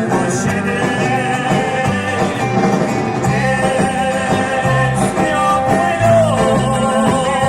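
A live vocal-instrumental band playing an upbeat pop-rock song, with a steady bass line under held notes.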